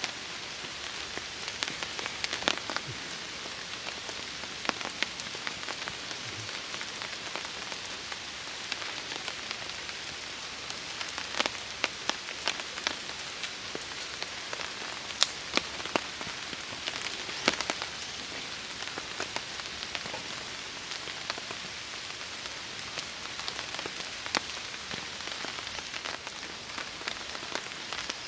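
Steady rain falling on a tarp, with sharp single drop hits ticking irregularly through the hiss.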